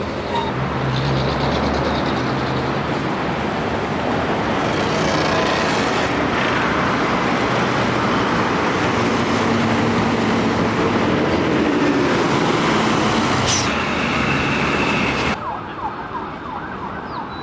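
Loud road traffic noise: a dense rushing roar of passing vehicles, with a faint high steady tone near the end, cutting off abruptly about fifteen seconds in.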